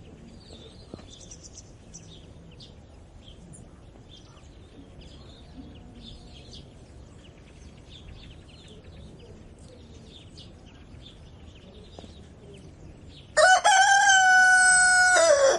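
Small birds chirping faintly in the background, then near the end a rooster crows once, loud and held for about two seconds.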